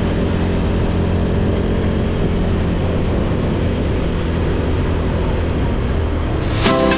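A steady low rumble, then electronic music with a sharp beat coming in just before the end.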